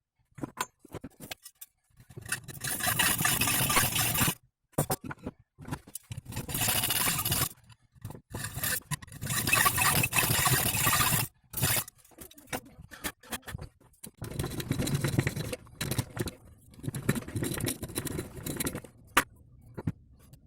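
Hand-tool work on metal during a driveshaft U-joint job: four long scraping strokes of one to three seconds each, with short clicks and clinks of tools in between.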